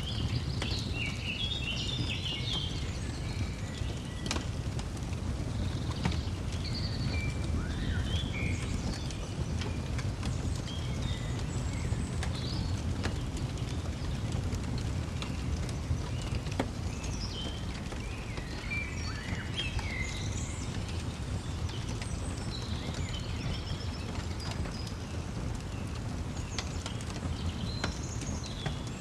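Fireplace burning with a steady low rumble and occasional sharp crackles, while small birds chirp and twitter on and off over it.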